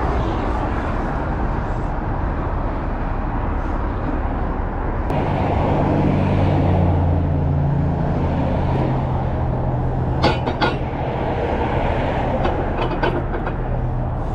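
A heavy truck's engine running under steady road or rumble noise. A low engine drone rises out of the noise about five seconds in and holds. There are a couple of sharp clicks about ten seconds in and scattered light ticks near the end.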